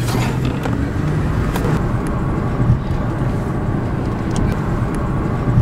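A car driving, with a steady rumble of engine and road noise.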